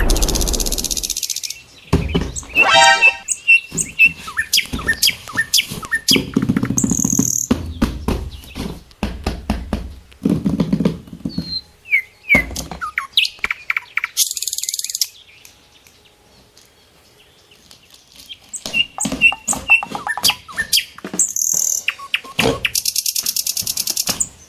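A quick string of cartoon sound effects: short chirps, clicks and thuds, with a few short bursts of hiss and a brief lull partway through.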